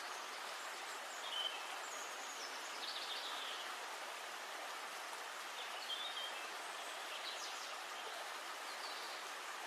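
Steady hiss of flowing river water, with short bird chirps several times.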